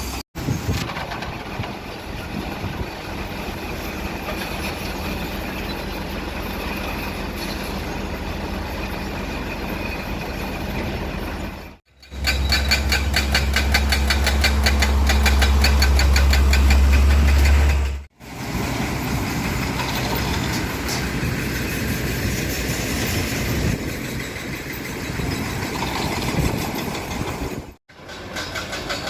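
Diesel engine of a concrete mixer truck running steadily during a concrete pour, heard in several clips cut together. The clip from about 12 to 18 seconds is louder, with a deep hum and a fast, even clatter.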